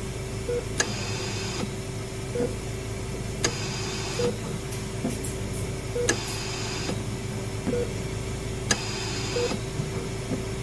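Hospital-ambience sound-effect track: a repeating machine cycle in which a sharp click is followed by a short hiss about every two and a half seconds, with a short beep about every two seconds, over a steady hum and a steady tone.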